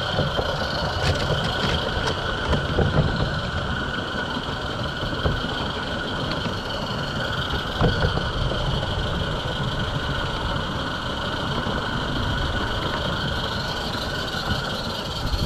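Garden-scale model train running along the track: a steady rumble of wheels with a constant high-pitched whine over it.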